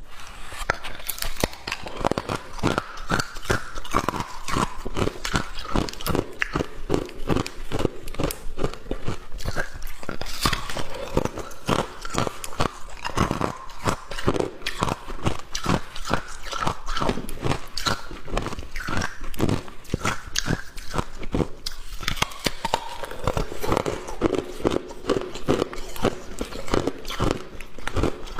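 Close-miked biting and chewing of hard clear ice: rapid, sharp crunches and cracks, several a second, without a break.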